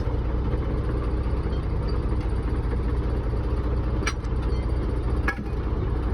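An engine idling steadily with a low drone, with two short sharp knocks about four and five seconds in.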